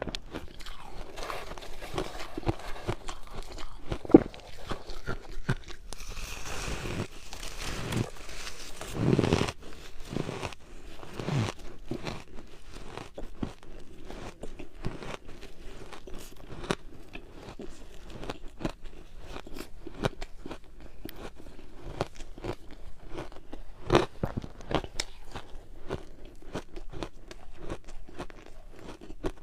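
Ice being bitten and chewed close to the microphone: a steady run of crunches and sharp cracks, with a longer grinding crunch from about six to nine seconds in and loud snaps near four seconds and again near the end.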